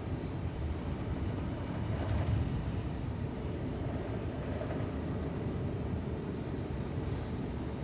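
Steady low rumble of cabin noise inside an Airbus A350-941 airliner.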